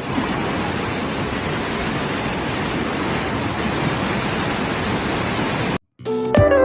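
Steady rush of Dunn's River Falls cascading over rock, which cuts off abruptly near the end; plucked guitar music starts right after.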